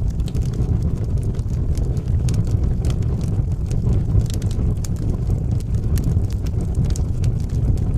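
Wood fire burning in a fireplace: a steady low rumble of flame with frequent sharp crackles and pops scattered throughout.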